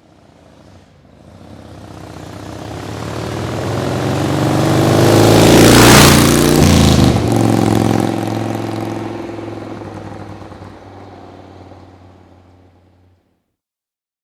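A motorcycle passing by: its engine grows louder for about five seconds, is loudest about six seconds in with the pitch dropping as it goes past, then fades away and cuts off suddenly near the end.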